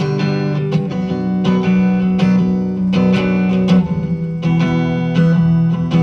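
Guitar strumming chords in a steady rhythm, an instrumental stretch of a song with no singing.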